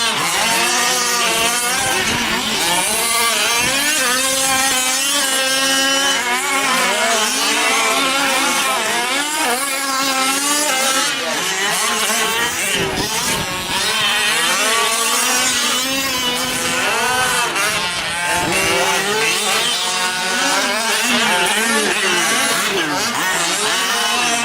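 Several 1/5-scale gas RC trucks' small two-stroke engines racing around the track, overlapping whines that keep revving up and falling off as the trucks accelerate and brake.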